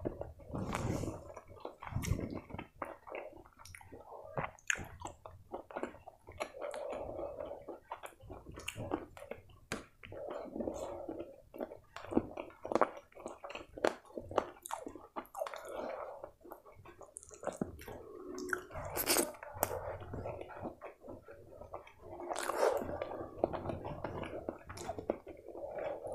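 A person chewing a mouthful of rice and chicken curry with wet mouth sounds, and many short smacks and clicks throughout.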